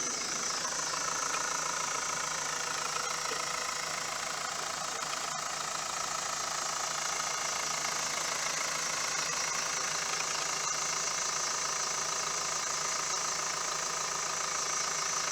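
Mitsubishi Fuso FE145's 4.9-litre turbo diesel idling steadily, running quietly with no unusual noises. A single sharp knock about five seconds in.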